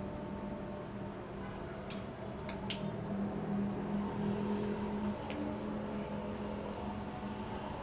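A steady low hum with a few short, light clicks scattered through it.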